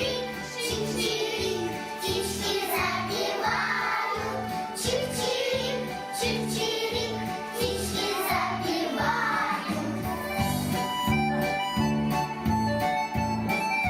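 Children singing a song over a backing track with a steady beat. The voices stop about ten seconds in and the instrumental carries on.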